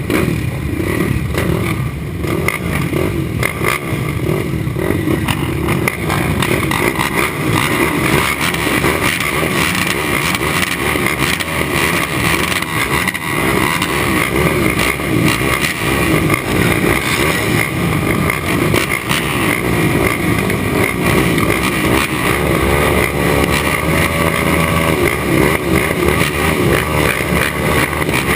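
Racing ATV engine running hard and continuously, its pitch wavering up and down with the throttle.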